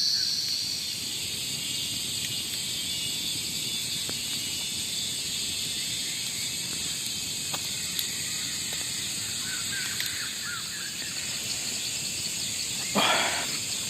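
Forest ambience: a steady, high-pitched insect chorus, with a few faint bird chirps about ten seconds in and a short rustling noise near the end.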